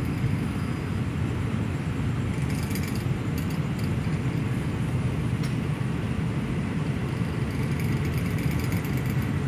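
Express passenger train running along the track, heard from inside the carriage as a steady low rumble of wheels and car body on the rails.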